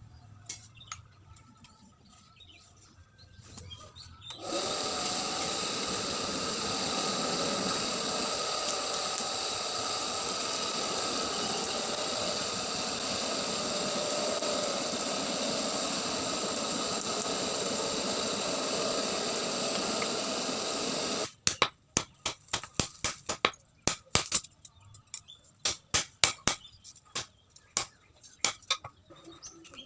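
A steady electric motor-driven tool runs for about seventeen seconds with a constant whine, then cuts off suddenly. It is followed by a quick, irregular run of sharp metal taps and clinks.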